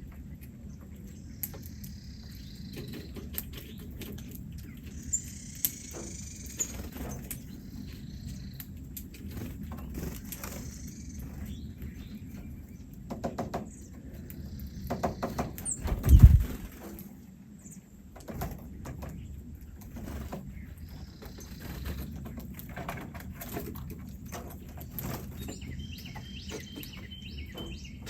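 Small birds chirping in short scattered bursts, with fluttering and rustling and many small clicks. A single loud low thump about halfway through.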